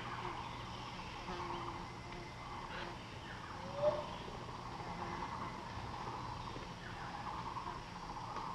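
Birds calling against a steady grainy forest background. The loudest sound is one short rising call about four seconds in.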